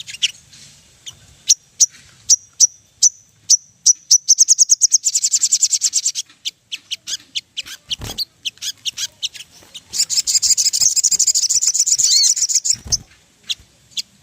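Sogon sunbird song: a run of sharp, high chips that speed up into a fast trill, more scattered chips, then a second, longer rapid trill. A single dull thump sounds about eight seconds in.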